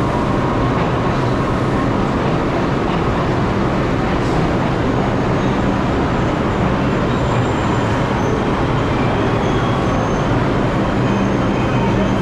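New York City subway train running, a steady loud rumble, with a faint high whine coming in after about eight seconds.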